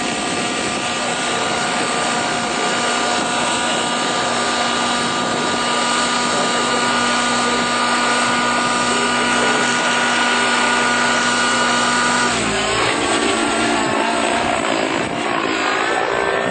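Helicopter running loud and steady, a dense engine-and-rotor noise with a constant whine over it. About twelve seconds in the steady tones cut off and the sound turns rougher and more changeable.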